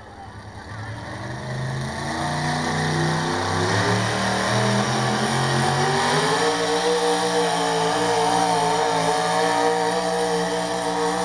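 Pulling truck's engine under full load, revs climbing steadily for about six seconds, then held high and steady to the end; the announcer puts the climb down to nitrous oxide being injected.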